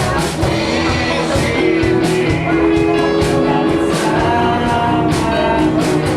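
Live rock band playing at full volume: drums keeping a steady beat under electric guitars, bass and keyboard, with a woman singing.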